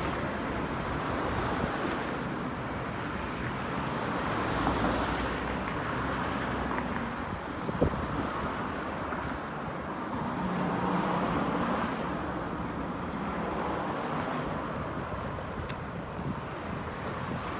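Street ambience of road traffic, cars passing with a steady rush that swells and fades, with a single sharp click about halfway through.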